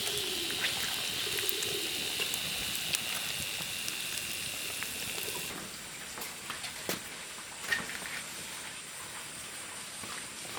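A steady hiss with a few scattered clicks, whose character changes abruptly about halfway through.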